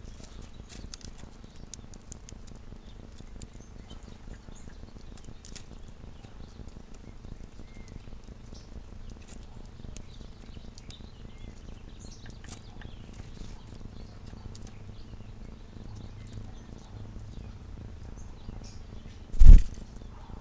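Faint bird chirps and light ticking over a steady low hum. Near the end there is one loud, short, deep thump.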